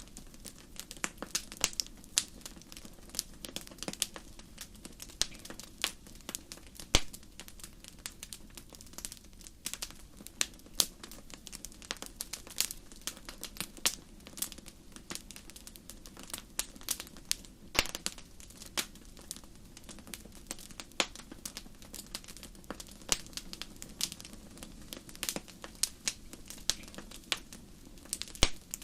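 Wood fire crackling in a fireplace: many irregular sharp pops and snaps over a steady low rush of flame, with one louder pop about seven seconds in.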